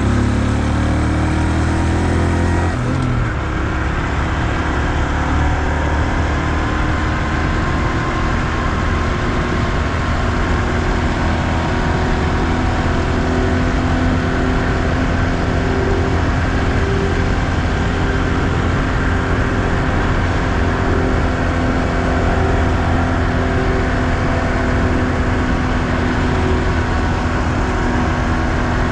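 2020 Honda Super Cub's single-cylinder engine running under a rider on the road. Its note changes in the first three seconds, then holds steady at a cruise.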